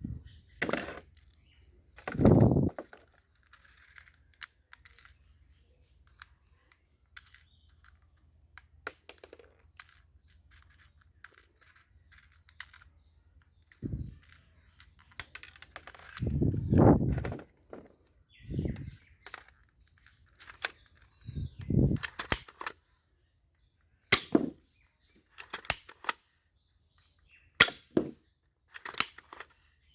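Toy guns being worked and fired: irregular sharp clicks and snaps, coming closer together near the end, with a few heavier thumps in between.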